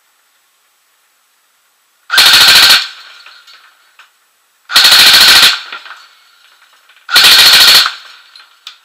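Airsoft electric gun (AEG) fired on full auto, run from a 7.4 V LiPo battery: three short bursts of rapid shots, about two and a half seconds apart.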